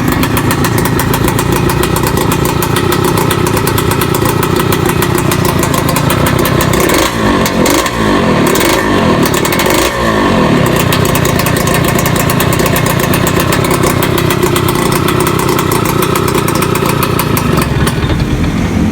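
Yamaha F1ZR's two-stroke single-cylinder engine idling through an aftermarket AHM Malaysia exhaust, with a few quick throttle blips about seven to ten seconds in.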